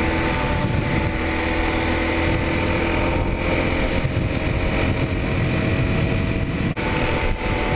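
Single-cylinder Honda dual-sport motorcycle engine running at a steady pace while riding, with wind rushing over the helmet-mounted microphone.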